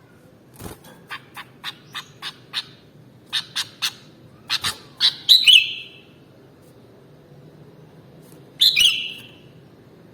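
Sooty-headed bulbul (kutilang) calling: a run of short, sharp notes at about three a second, then two louder, longer phrases, one about five seconds in and one near the end.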